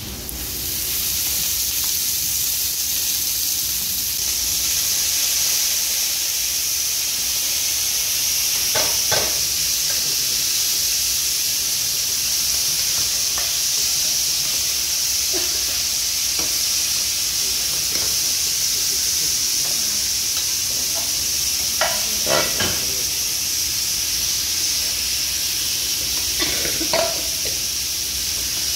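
Sliced onions frying in hot oil in a cast-iron sizzler pan: a loud, steady sizzle that starts about half a second in as the oil hits the hot pan. A few short knocks of a utensil in the pan come around the middle and near the end.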